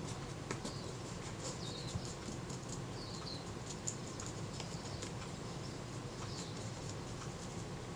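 Quiet workbench sounds: faint ticks and light rubbing of a naphtha-soaked cotton bud wiping a metal shutter mechanism plate, over a steady low hum, with short faint high chirps every second or so.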